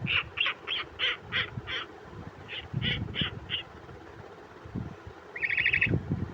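An owl calling: two runs of short, harsh, hoarse notes at about three a second, then a louder, quick rattling trill near the end.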